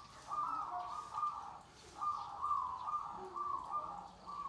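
Zebra dove (perkutut) cooing: phrases of quick, choppy coo notes, one just after the start and another about two seconds in.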